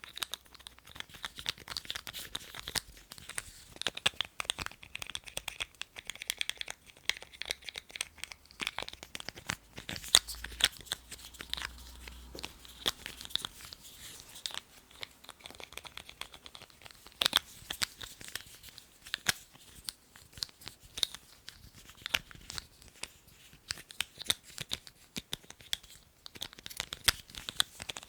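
Lids handled close to the microphone: an irregular run of sharp taps and clicks, several a second, with crinkling scrapes between them.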